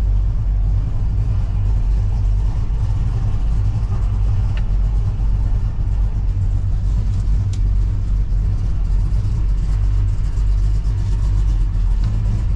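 A car's engine running steadily with a deep, low rumble, heard close up while the car is being moved.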